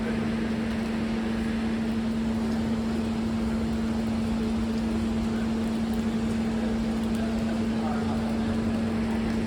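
Steady machinery hum: one constant low tone over an even wash of noise, unchanging throughout.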